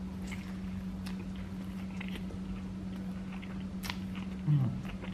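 A man biting into and chewing a mouthful of bacon cheeseburger close to the microphone, with small wet mouth clicks and a sharper click a little before the four-second mark. A steady low hum runs underneath, and there is a short 'mm' from the eater near the end.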